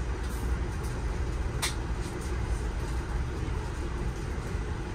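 Amtrak passenger train running at speed, heard from inside the coach: a steady low rumble of wheels on rail. One sharp click comes about a second and a half in.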